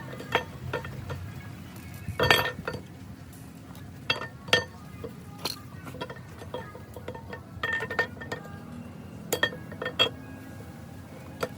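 Metal tools and engine parts clinking and ringing against each other, about a dozen irregular sharp strikes, with the loudest a couple of seconds in and again about four and a half seconds in.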